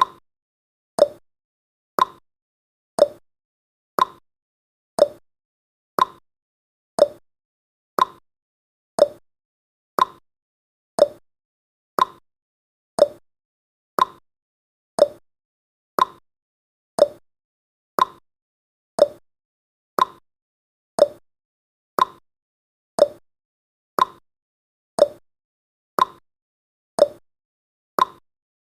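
Countdown timer's ticking sound effect: one short, sharp tick every second, each cut off quickly, marking the seconds as the timer counts down.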